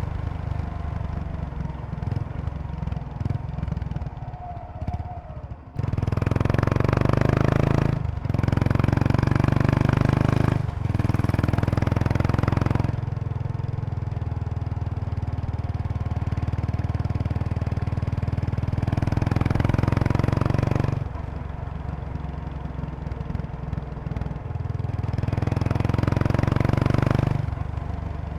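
2003 Kawasaki Estrella RS 250 cc single-cylinder engine running under way through an aftermarket Yamato muffler, at an easy pace. The exhaust note is quieter at first, picks up sharply about six seconds in, cuts briefly twice near eight and eleven seconds, drops back around twenty-one seconds and swells again briefly near the end.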